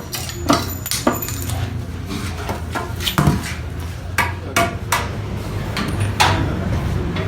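Irregular sharp knocks of wood and tools, about ten of them, from 2x4 stud framing work, over a steady low hum.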